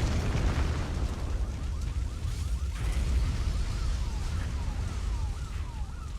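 Film sound design for a slow-motion car-crash scene: a deep steady rumble, with a thin tone falling in pitch over and over, about twice a second, from about a second and a half in.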